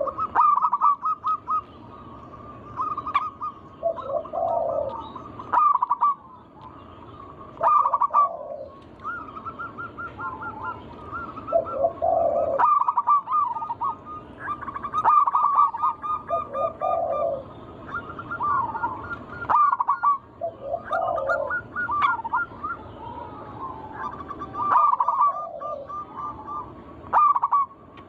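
Zebra doves (perkutut) cooing. Each phrase has a quick trilled run of high notes followed by lower rounded coos, and a new phrase starts every two to three seconds.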